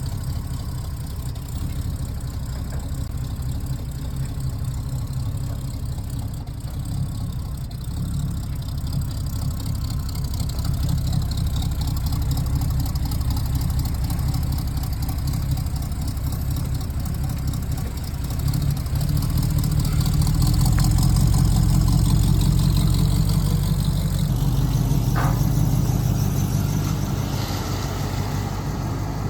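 Car engine running at low revs, a steady low rumble that grows louder about two-thirds of the way in and then eases off.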